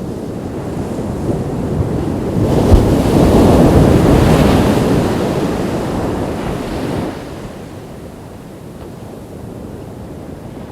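Ocean waves breaking on a beach: one wave swells and crashes about three seconds in, then washes back and dies away abruptly a few seconds later, with a low rumble of surf and wind on the microphone throughout.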